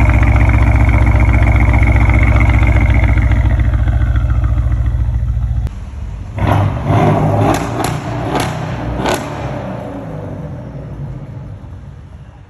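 Mercedes-Benz CLS550's V8 through an aftermarket exhaust, running loud and steady. About six seconds in the sound drops off suddenly, and a quick run of about six short revs follows before it fades.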